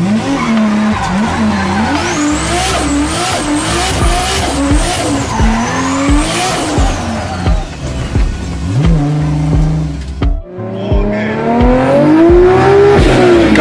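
Turbocharged car engine heard from inside the car while driven hard: the revs rise and fall in quick throttle stabs, with a high turbo whistle rising and falling with them, then settle briefly to a steady note. About ten seconds in, after a cut, another car's engine pulls steadily up through the revs.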